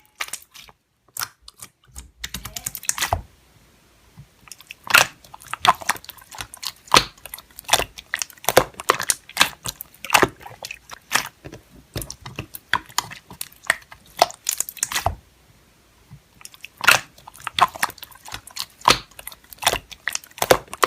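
Slime being squished and pressed by hand, giving runs of sticky, irregular clicks and pops, with short pauses of a second or two between runs.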